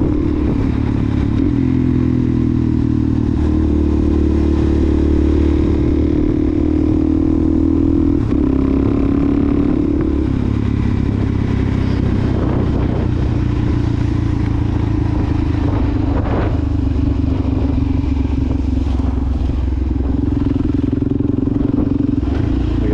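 Suzuki DRZ400SM's single-cylinder four-stroke engine through a Yoshimura exhaust, running at a steady cruise while ridden, with a couple of brief shifts in pitch partway through.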